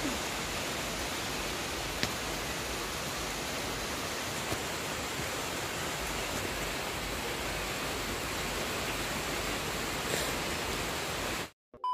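Steady rain falling, an even hiss with a couple of faint ticks; it cuts off suddenly near the end.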